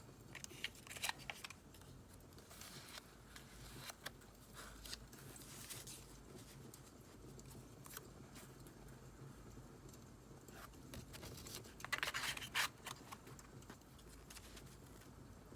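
Close-up paper-crafting sounds: scissors snipping through paper and paper being handled, with a run of crisp cuts about twelve seconds in. Faint scattered crackles of burning firewood run underneath.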